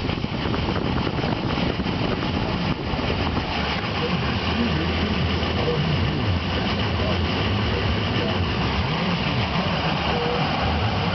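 Ford Power Stroke diesel engine idling roughly, its speed wavering up and down rather than holding steady: the crazy idle of a failing ICP (injection control pressure) sensor.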